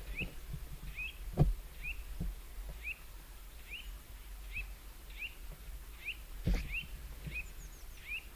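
A small bird calling over and over, a short rising chirp about once or twice a second, over a low outdoor rumble, with a few dull knocks, the strongest about a second and a half in and again near six and a half seconds.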